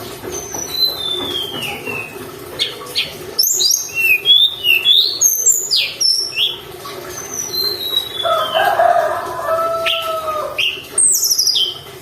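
Tledekan gunung birdsong: a quick run of high, thin chirps and downward-sliding whistles, with a lower, steadier warble about eight seconds in, over a faint steady hum.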